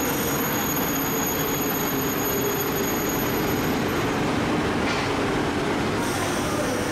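TGV Duplex high-speed train creeping slowly along the platform to couple with a second TGV set: a steady rumble of the train and its running equipment, with a thin high whine that fades out about halfway through.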